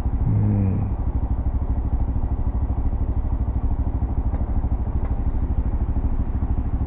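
Honda Monkey 125's single-cylinder four-stroke engine idling with a steady, even pulse while the bike waits in traffic. A short low hum comes in about half a second in.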